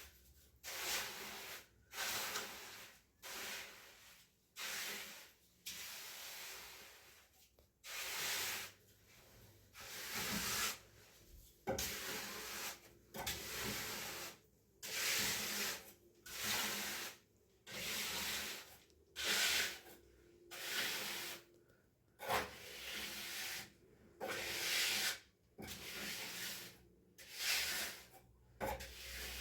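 Rough rubbing strokes of a hand tool worked back and forth over a hard, gritty surface, about one stroke a second in an even rhythm.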